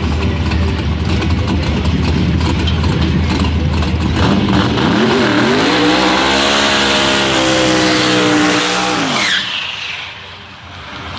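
Twin-turbo Mustang engine under hard acceleration: a loud low rumble, then the engine pitch climbs steadily from about four seconds in and holds high. Near the end the pitch and a high turbo whistle drop sharply and the sound fades.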